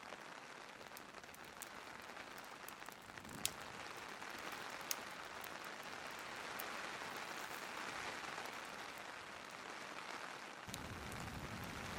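Steady rain hiss mixed with a crackling fire, scattered small pops and two sharper pops about three and a half and five seconds in. A low rumble joins near the end.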